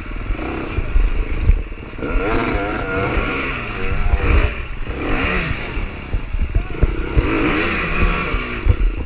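Dirt bike engines revving hard and unevenly, the pitch rising and falling every second or so, with knocks and clatter, as a bike stuck in deep mud fights for traction on a steep climb.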